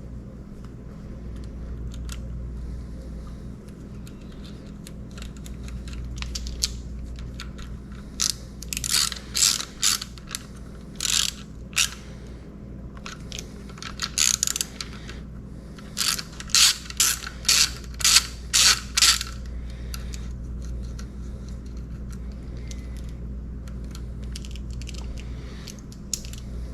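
Hand socket ratchet clicking in short runs of strokes as a nut is tightened, in about a dozen bursts in the middle stretch, over a steady low hum.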